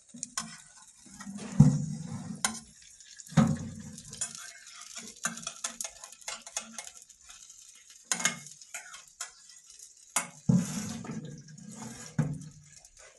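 Steak pieces sizzling in oil in a metal tray on a wood-burning stove, with repeated clicks, knocks and scrapes of a utensil against the tray as the meat is turned.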